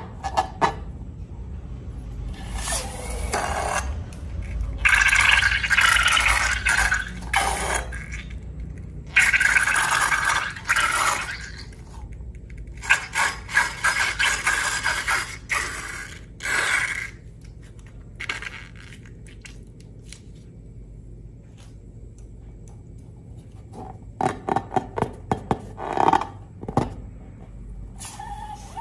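Slime being worked and scraped: several stretches of sticky, wet crackling and small clicks with quieter pauses between, and a run of sharper pops near the end.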